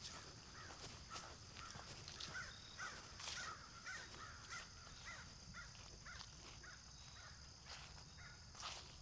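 Faint footsteps on a trail while a bird gives a quick series of short calls, about two a second, for several seconds, over a steady high insect drone.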